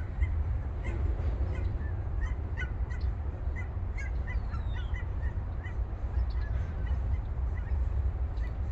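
A large flock of geese calling, many short honks overlapping continuously, over a steady low rumble.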